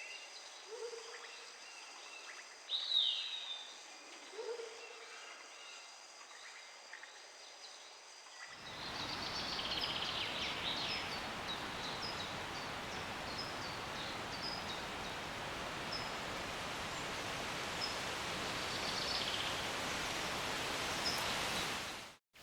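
Rainforest birds calling: swooping high whistled calls and two short low hoots over faint ambience. About eight seconds in it cuts to a steady, louder hiss with sparse, short, high chirps over it, which cuts out just before the end.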